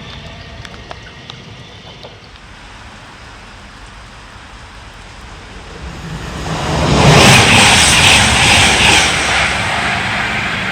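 Train passing through the station at speed: a rush of noise that swells quickly about six seconds in, is loudest for a couple of seconds, then slowly fades.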